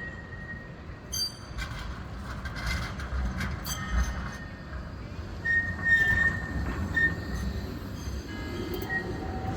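Bombardier Flexity 2 tram running on street track with a low rumble and scattered clicks, its wheels giving short high squeals, loudest just past the middle.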